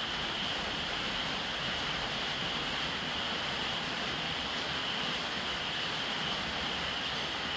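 Steady rain falling on a roof, an even unbroken hiss with no single drops standing out.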